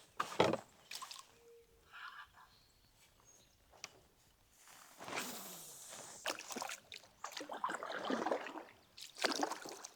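Water sloshing and splashing around a kayak, with a few sharp knocks in the first two seconds and a longer run of splashing from about halfway.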